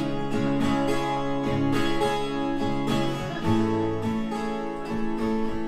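Acoustic guitar strumming chords in a country-style song, an instrumental passage between sung lines.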